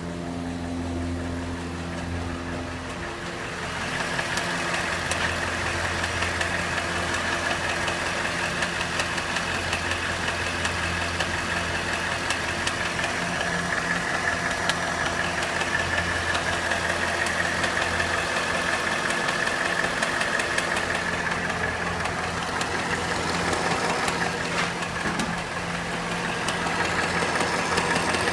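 Cadillac Northstar 4.6 DOHC V8 idling hot, with an intermittent clicking over the steady engine note. It gets louder about four seconds in. The clicking shows up only when the engine is hot.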